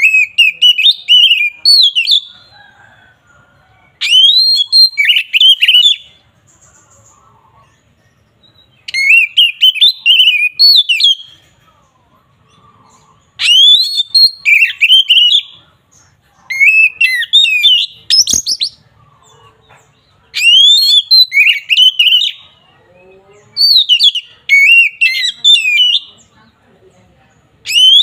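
Oriental magpie-robin (kacer) singing loud phrases of rapid sliding whistles, each about two seconds long, repeated about seven times with short pauses between.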